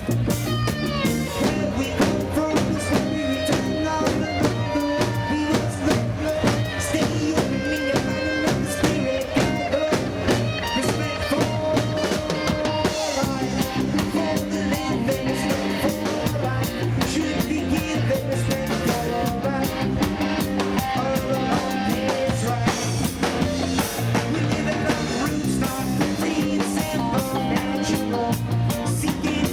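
Live roots reggae band playing an instrumental passage, with drum kit and guitar over a steady low bass line.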